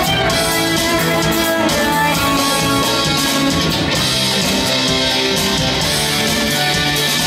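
A band playing live: a steady instrumental passage carried by guitar, with no singing.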